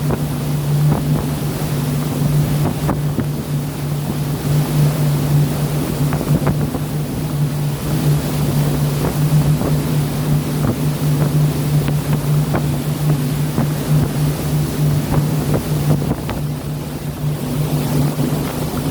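A boat engine droning steadily at one pitch under a rushing wash of wind and sea, with wind buffeting the microphone and scattered small knocks and splashes.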